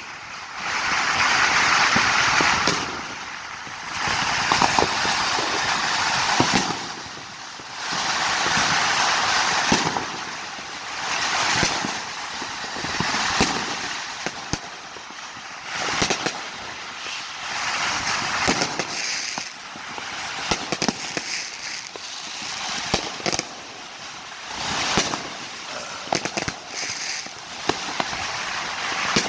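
Fireworks and firecrackers going off all around: swells of dense crackling lasting a couple of seconds each, with many sharp bangs scattered between them.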